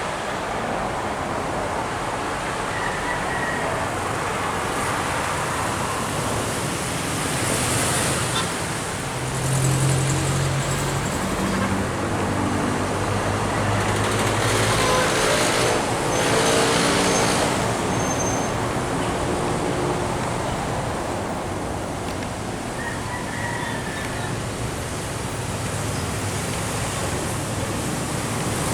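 Steady roadside traffic noise of passing vehicles, with a heavy truck's engine passing close by in the middle, its engine note rising and then fading.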